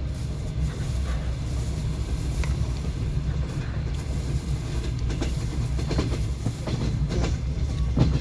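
Passenger train running along the line: a steady low rumble of the carriage with the clatter of wheels over the rail joints, a few knocks standing out in the later part.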